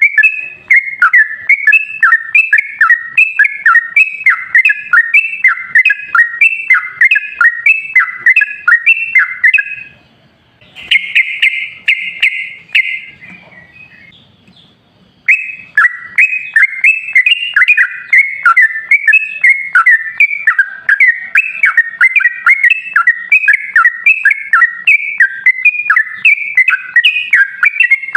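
Recorded bird song of rapid, repeated whistled chirps, a lure track to get a sooty-headed bulbul (trucukan) to sing. About ten seconds in the chirping stops for a buzzy rattle of about two seconds and a short quieter spell, then starts again.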